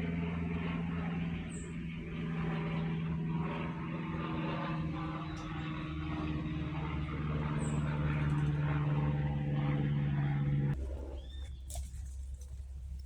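A motor engine running steadily with a low, even hum, growing a little louder, then stopping abruptly about eleven seconds in.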